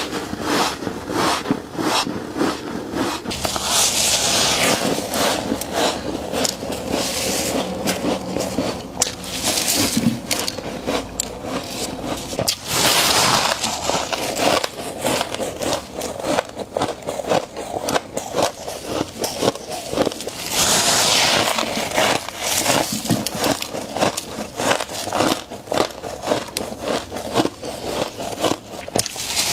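Close-up crunching and crackling of frost being bitten and chewed, a dense run of irregular crisp cracks, broken three times by a brief scraping rush.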